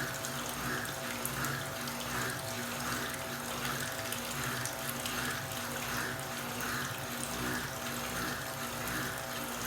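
Electrolux LT06 top-load washing machine filling, with water running steadily into the tub under a constant hum, overlaid by a rhythmic swishing about twice a second.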